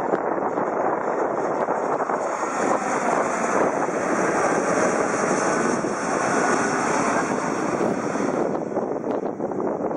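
Jet airliner passing low overhead, its engine noise a loud, steady roar with a high hiss that swells through the middle and fades away near the end.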